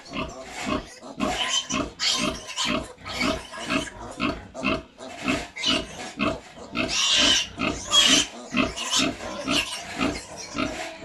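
Pigs grunting loudly and rapidly, about two grunts a second, with a longer, higher squeal around seven to eight seconds in.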